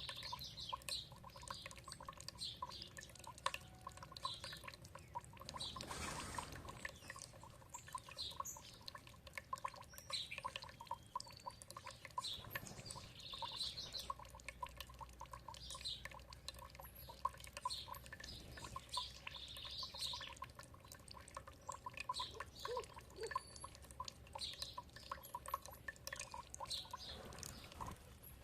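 Songbirds chirping with short, repeated calls over a steady trickle of running water.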